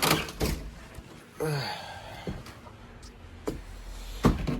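A few sharp clicks and knocks, the loudest about four seconds in, with a short voiced sound about a second and a half in.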